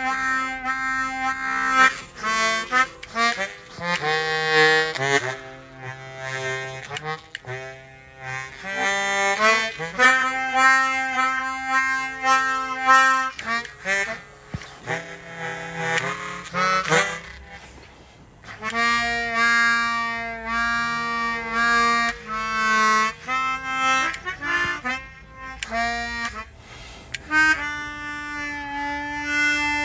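Suzuki Sirius S48B bass chromatic harmonica playing a slow run of held notes, each with a strong buzzy stack of overtones. It goes through a Boss MD500 modulation effects pedal with added reverb, and there is a short pause about two-thirds of the way through.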